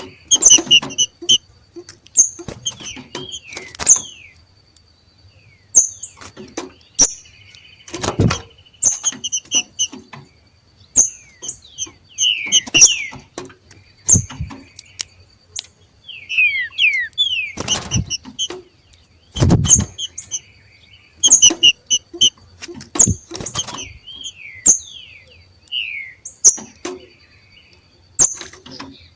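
Green-winged saltators (trinca-ferro) giving the 'macheado' call: short bursts of sharp, high chipping notes mixed with quick downslurred notes, repeated every second or two, the call of birds in breeding condition. Twice, about eight seconds in and again past halfway, a dull thump cuts in.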